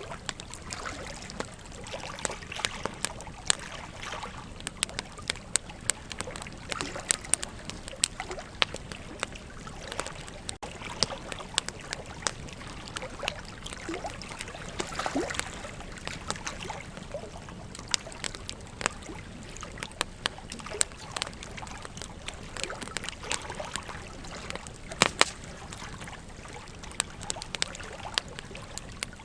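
Wood campfire crackling, with frequent sharp pops and snaps, over the steady rush of a flowing river.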